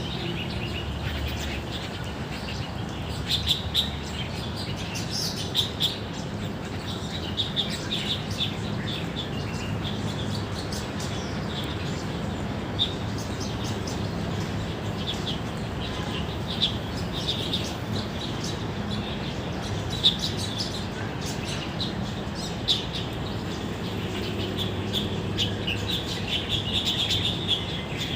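Many birds chirping and calling in trees, short repeated high chirps throughout, thickest near the end, over a steady low background hum.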